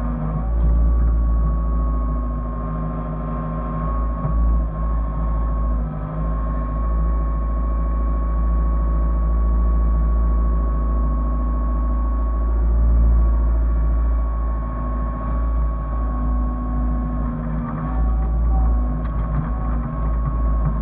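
Hyundai excavator's diesel engine running steadily under a deep rumble, with a steady high whine over it; the level swells and eases slightly every few seconds.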